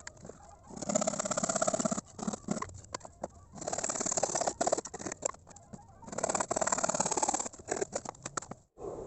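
Rasping strokes of a hand tool on pallet wood, three long strokes of about one to two seconds each with short pauses between.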